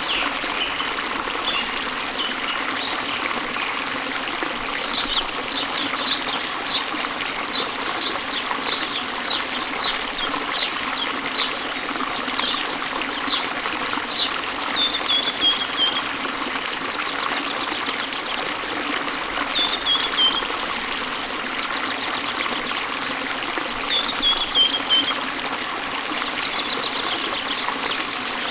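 Steady rush of flowing water, with a songbird singing over it: a run of quick, high chirps, then three short falling trilled phrases.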